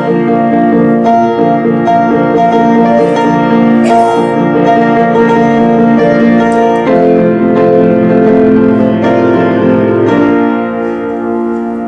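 Slow instrumental piano music in held chords, played to accompany the salute to the flag.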